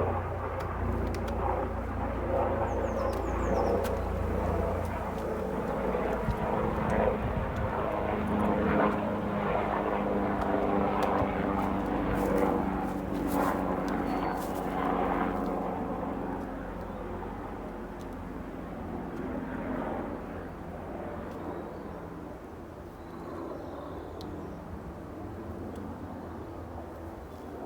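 A propeller aircraft flying over, a steady engine drone that gradually fades over the second half. A few light clicks come partway through.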